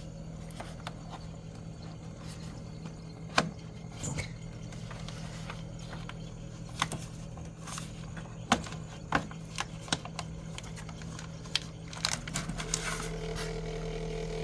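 Samsung Zipel SRT686FVIS refrigerator's condenser compartment humming steadily, with scattered clicks and knocks as the newspaper wedged under the condenser is pulled out. Near the end a higher buzzing vibration sets in: the condenser's mounting rattling against the floor once the newspaper shim is gone.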